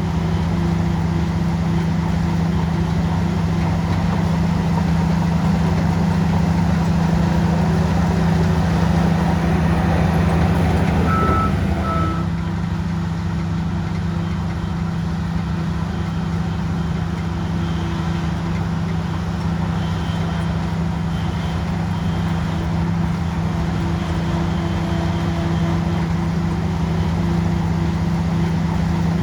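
Shantui bulldozer's diesel engine running steadily under load, working a little harder for several seconds before easing off about twelve seconds in. Two short beeps sound just before it eases.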